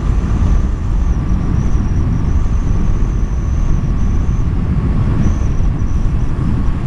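Steady rush of wind on a helmet microphone from a Husqvarna Svartpilen 401 motorcycle at cruising speed, with the bike's engine and road noise running underneath.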